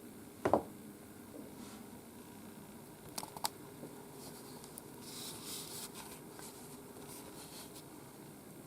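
Soft thump about half a second in, two quick light clicks a little after three seconds, then a short rustle, over steady low room noise.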